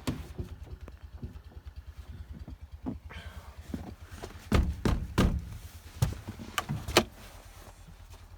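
Small garden-tractor engine idling with a fast, even putter, while several loud thumps and knocks land about halfway through.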